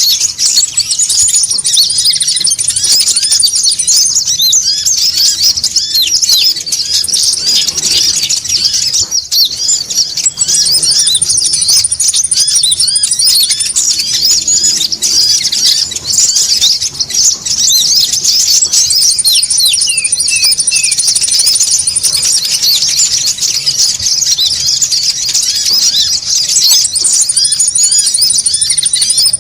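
A dense chorus of konin birds chattering in rapid, high-pitched chirps without a break, used as a lure call to draw wild birds. A thin, high, steady trill rises above the chatter for a few seconds at a time, about every seven to eight seconds.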